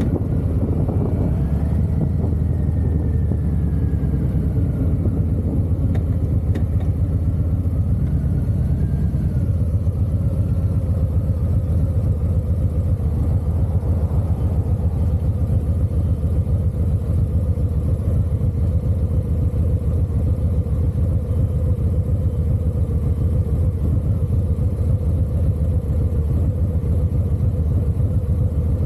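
Harley-Davidson motorcycle engine running, a steady low-pitched note, with the pitch shifting a little in the first ten seconds or so before settling.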